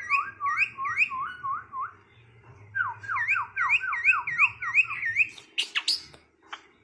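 Asian pied starling (jalak suren) whistling two quick runs of repeated rising notes, about five a second, with a short break between them, then a few short, sharp calls.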